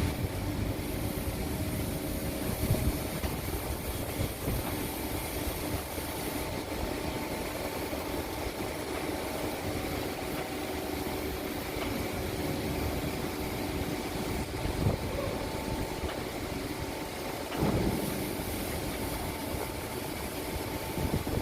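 Truck engine running steadily, with a couple of short knocks in the second half.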